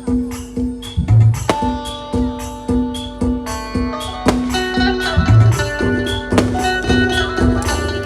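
Dhumal band playing instrumental music through a loud sound system: a steady drum beat of about two hits a second under a repeating melody line, which changes to held notes about halfway through, with a deep bass boom twice.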